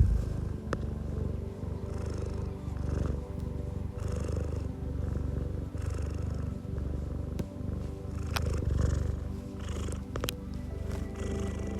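A domestic cat purring close to the microphone, the low rumble swelling and easing with each breath about once a second, over soft background music. A few short clicks come late on.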